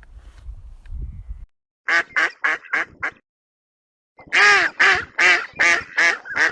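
Duck quacking in two quick runs, about five quacks and then about six louder ones. A low rumble comes before them.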